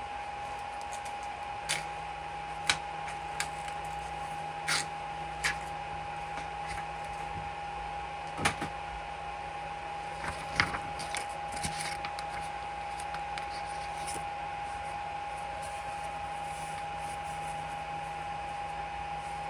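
3D printer running with a steady high whine, joined about a second in by a lower hum, while small clicks and taps of handling the machine come and go.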